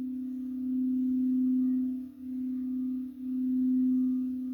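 Singing bowl sounding one steady low tone with faint higher overtones. Its loudness swells and fades, dipping sharply twice near the middle.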